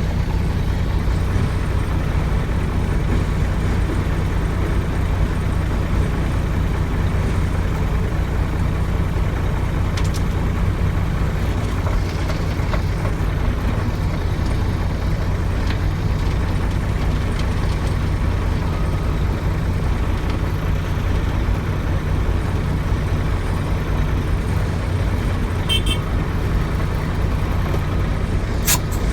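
Heavy truck's diesel engine running steadily with a low, unchanging rumble. A few short sharp clicks come near the end.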